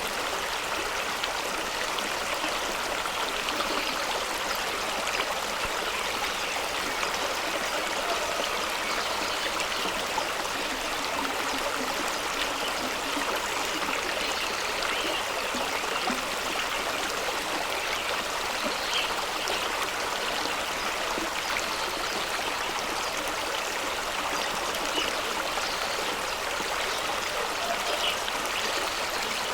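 Fast-running stream rushing and splashing over rocks at a small waterfall, a steady even rush with small splashes and trickles throughout.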